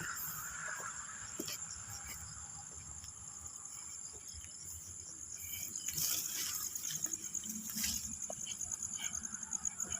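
Night insects calling in a steady, high-pitched, fast-pulsing chorus, with a few faint knocks.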